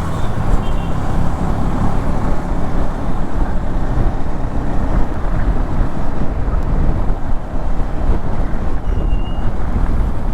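Motorcycle engine running steadily under way, mixed with road and wind noise rushing over the camera microphone.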